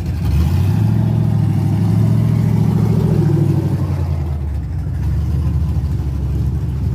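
Loud, low rumble of a pickup truck's engine running close by, swelling about half a second in and easing off after about four seconds.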